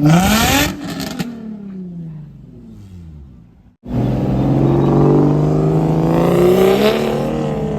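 A car engine revs up hard as the car pulls away, then its pitch falls as it fades over about three seconds. After a sudden break, another loud engine runs with a steady, slowly rising note.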